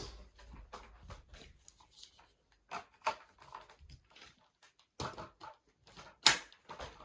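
Scattered small clicks, taps and rustles of objects being handled and moved about, with one sharper knock about six seconds in; the vacuum cleaner is not running.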